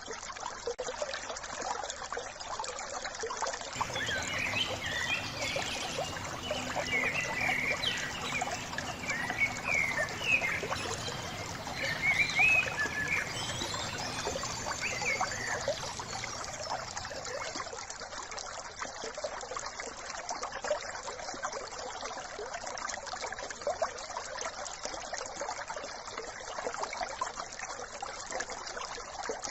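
A small brook trickling and splashing steadily over stones. Birds chirp repeatedly over it from about four seconds in until about sixteen seconds in.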